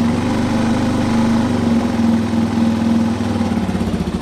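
Yamaha XT motorcycle engine running at a fast idle just after starting, settling to a lower, even beat near the end. The engine has freshly rebuilt top-end parts, new valves and timing chain, after a valve struck the piston and it jumped timing, and it is running well again.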